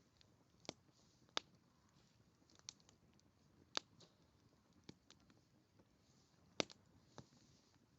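Wood fire crackling: irregular sharp pops and snaps of burning wood over a faint hiss, the loudest snaps about a second and a half in, near the middle and a little past two-thirds of the way.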